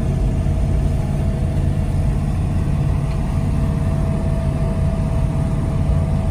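Car driving at a steady speed: even engine and road noise with a constant low hum, no change in pitch.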